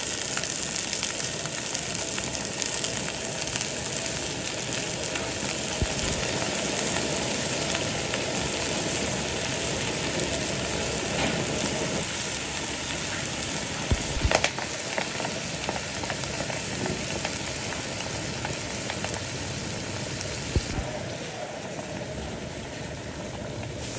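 Food frying in hot oil in a pan: a steady, dense sizzle with a couple of short knocks from a utensil, easing slightly near the end.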